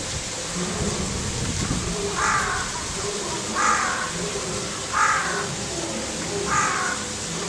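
A bird giving four short, harsh calls, evenly spaced about a second and a half apart, over steady background noise.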